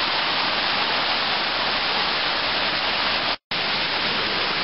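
Steady rushing of a small mountain creek's water. The sound cuts out completely for a split second about three and a half seconds in.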